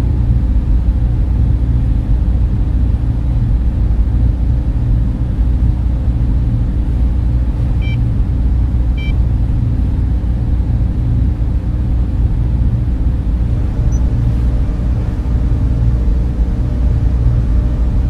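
Steady server-room cooling-fan noise, a deep, even hum without let-up, with two faint short beeps about eight and nine seconds in.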